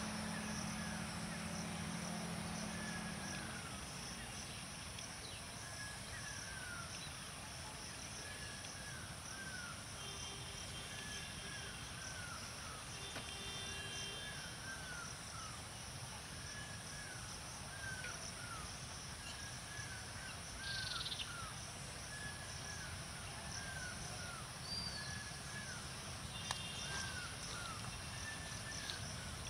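A bird calling over and over, short descending notes in pairs about every second and a half, over a steady low rumble.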